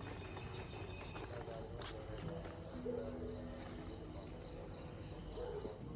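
Crickets chirping in a steady, high, even trill, fairly faint.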